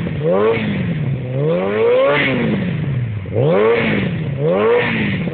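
Suzuki GSX750 Inazuma's inline-four engine revved at standstill through an Ixil carbon silencer. The revs rise and fall in repeated throttle blips, with one slower, longer climb and fall in the middle.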